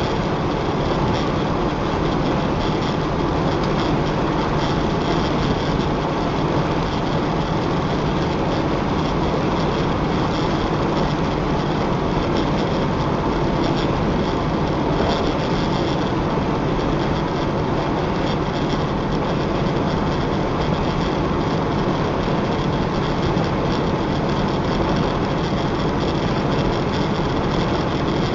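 Steady engine and road noise inside the cab of a moving vehicle, holding an even level throughout.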